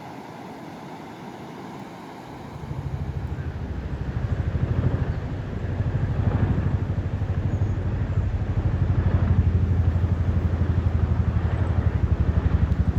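An engine running steadily with a low, rapidly pulsing note. It comes in about two and a half seconds in and stays loud, swelling and easing a little.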